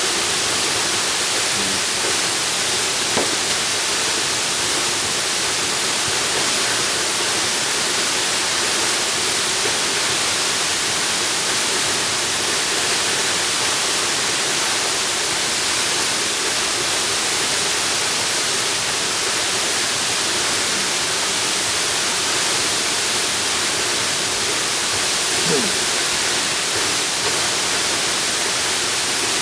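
Waterfall rushing in a steady, even hiss with no breaks.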